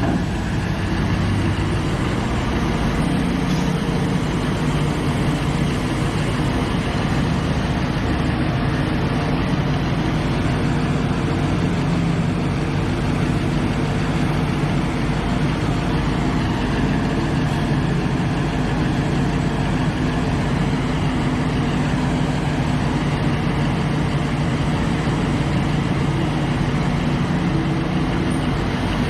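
Liebherr excavator's diesel engine running steadily at an even pitch.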